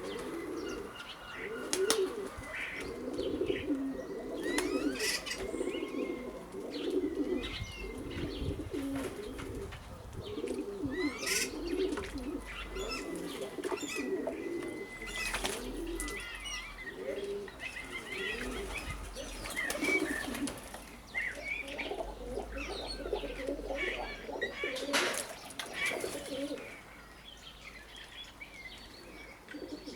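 Doves cooing over and over in low, rolling calls, with wings flapping now and then as they bathe. Small songbirds chirp in the background. The cooing dies away near the end.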